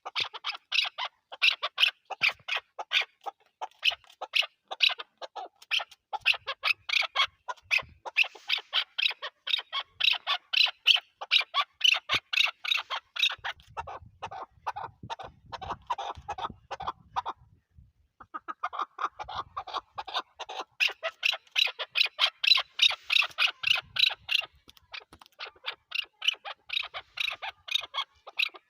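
Chukar partridge calling in a rapid, continuous run of short repeated notes, several a second, with a brief pause just past halfway before the calling resumes.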